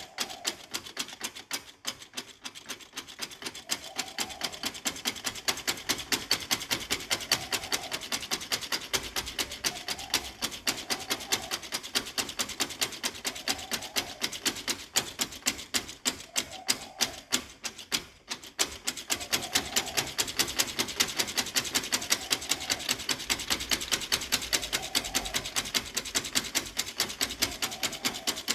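A hand tool working a small piece of material, likely wood, with fast repeated scraping strokes, about three a second, as in sanding or filing a tiny part.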